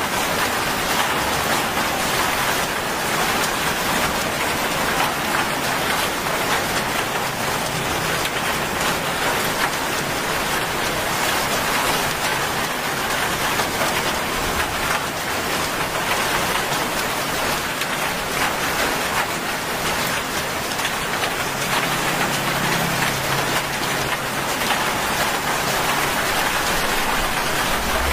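Heavy rain falling steadily onto a wet asphalt road and roadside plants, an even, unbroken hiss of drops.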